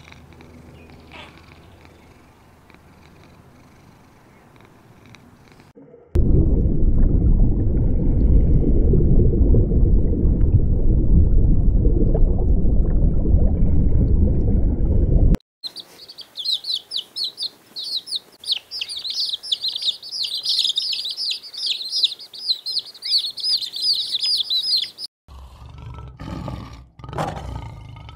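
Successive animal clips: a faint low steady sound, then about nine seconds of loud low rumbling that cuts off suddenly, then many small birds chirping together, and near the end a big cat begins roaring in heavy pulses.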